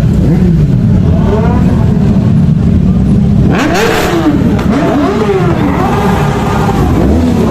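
Superbike engines revving, their pitch repeatedly rising and falling as the throttles are blipped, with a louder, harsher rev about three and a half seconds in.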